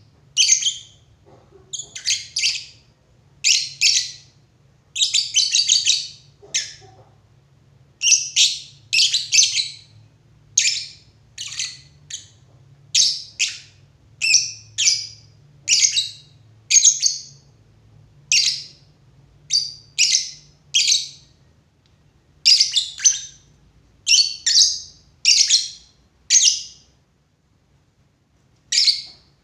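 Lovebird calling: a long series of short, high-pitched chirps, about one to two a second, that stops just before the end.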